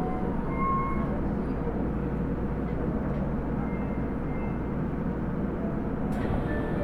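Onboard running sound of an Osaka Metro 30000-series subway car: a steady rumble of wheels on rail with a few brief faint whines, and a higher hiss joining about six seconds in.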